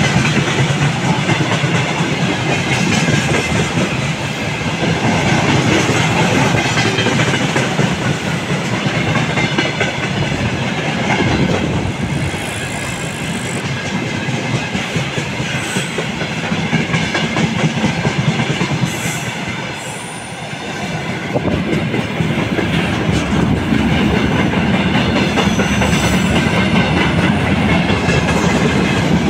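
Freight train cars (tank cars, then gondolas) rolling past close by: a steady loud rumble and rattle of wheels clacking over the rail joints, with a few brief high squeals.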